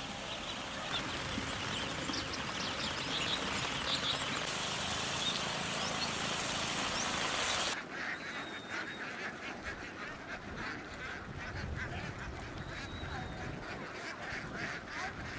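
A flock of ducks quacking, at first over a steady hiss that cuts off abruptly about eight seconds in; the quacking goes on more quietly after that.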